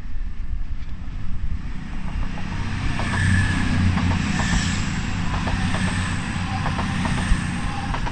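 Voyager diesel-electric multiple unit passing on the railway: a steady low rumble with rushing noise that swells about three to five seconds in, with a few faint clicks in the second half.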